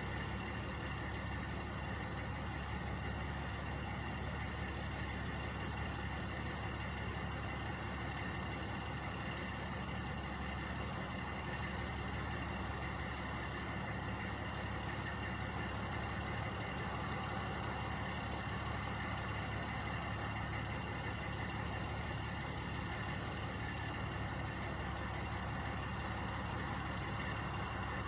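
Truck engines idling steadily: a constant low hum that does not change.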